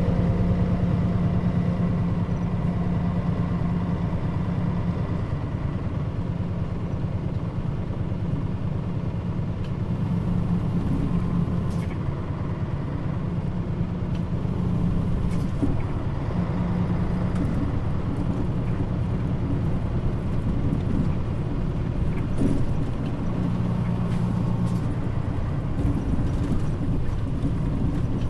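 Mitsubishi Fuso Aero Star (KL-MP35JM) city bus heard from inside while driving: a steady engine drone whose pitch steps up and down a few times as the bus changes speed, with light rattles of the body around the middle.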